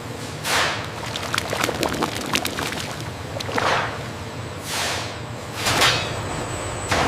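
A series of quick falling whooshes over a steady low machine hum, with a scatter of small clicks between the first two whooshes.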